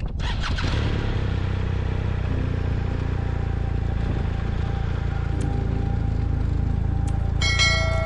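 Motorcycle engine running steadily, coming up in the first second, with a brief bright ringing tone near the end.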